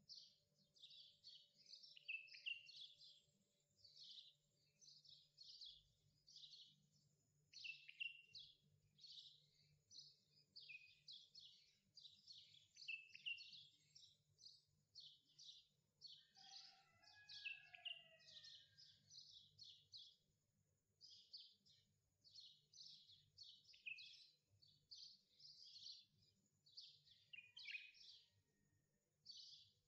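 Faint, continuous chirping of small birds: a dense run of quick, high, falling chirps, with a lower gliding call about halfway through, over a faint steady low hum.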